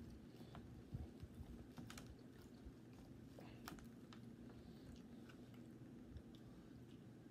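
Faint close-up eating sounds: chewing and mouth clicks from a person eating a fried pork chop sandwich, with scattered small crackles and ticks as the sandwich is pulled apart by hand.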